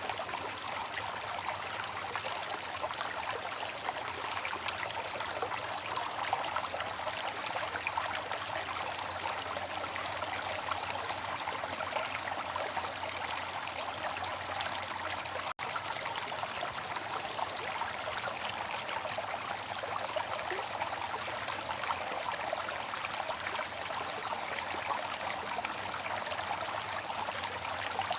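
Water fountain splashing and trickling steadily, a constant, even rush of falling water, broken once by a split-second gap about halfway through.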